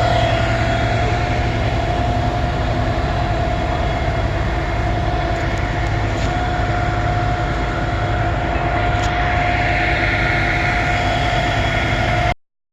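A heavy vehicle's engine running steadily with a low rumble and a constant high whine, until the sound cuts off suddenly near the end.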